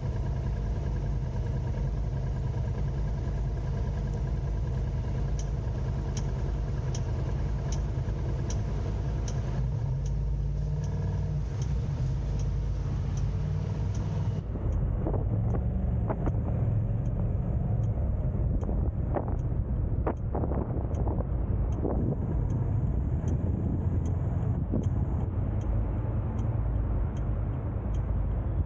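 Car driving in traffic: a steady low engine and road rumble, with a regular faint ticking about twice a second through the middle and a few short knocks in the second half.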